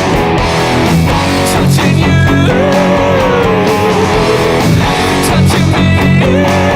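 Electric guitar playing sustained chords with a lead line. Twice, a held high note bends down and wavers with vibrato.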